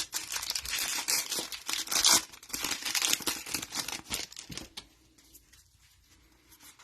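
Trading-card pack wrapper being torn open and crinkled by hand, a dense crackling for about four and a half seconds that then dies down to faint handling sounds.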